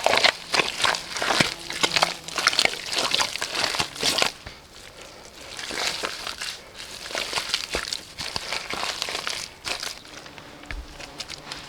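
Hands working wet clay: a dense run of crackling, rustling strokes for about four seconds, then sparser, quieter ones.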